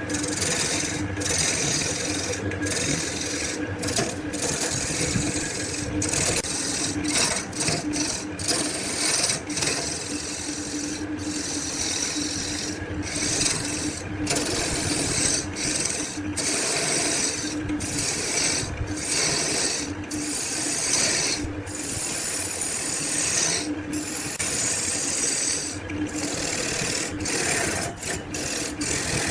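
Abrasive tool rasping on wood in repeated strokes, with brief breaks between strokes every second or two, over a steady low hum.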